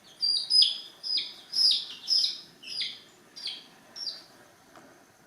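A bird peeping: about eight short, high-pitched chirps, each falling sharply in pitch, roughly two a second, growing fainter and stopping about four seconds in.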